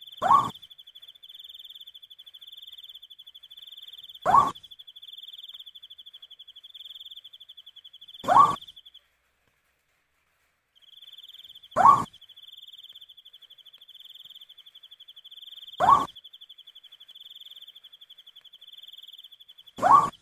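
An owl giving a short rising hoot about every four seconds, six times, over a steady high cricket trill that drops out for a couple of seconds in the middle.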